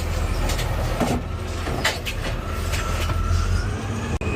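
Garbage truck engine running with a steady low rumble, with several knocks and rattles over it, and a brief dropout near the end.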